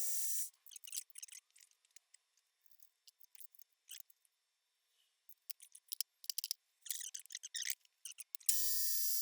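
A steady high-pitched machine hiss stops about half a second in. Scattered faint clicks and light scrapes of small metal work follow, and the hiss starts again sharply near the end.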